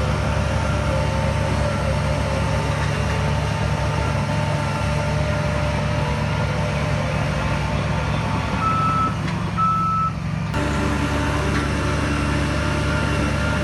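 Heavy diesel earthmoving machinery running steadily, with two short reversing-alarm beeps about nine seconds in. The engine sound changes abruptly shortly after the beeps.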